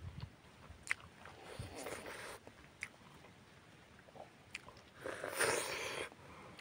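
Close-miked eating sounds from a person chewing food by hand: a few sharp mouth clicks and two louder stretches of wet chewing and biting, the loudest about five seconds in.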